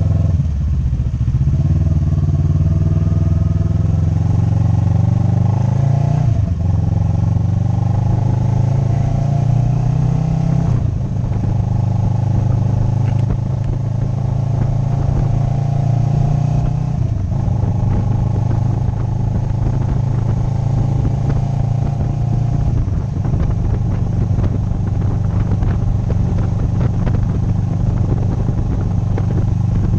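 Motorcycle engine pulling through the gears: its pitch climbs, then drops sharply at each upshift, about five times, with longer steady stretches between the later shifts.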